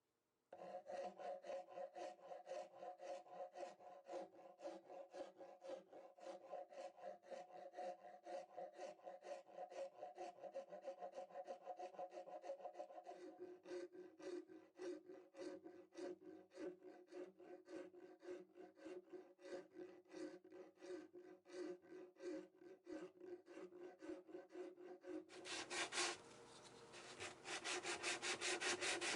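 Wood being hand-sanded in rhythmic back-and-forth strokes, about three a second, with a steady ringing tone under the strokes. Near the end the strokes become louder, brighter and quicker.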